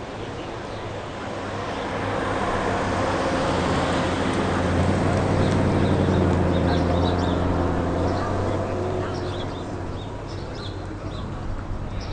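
A car drives past. Its engine note swells over a few seconds at a steady low pitch, then fades away.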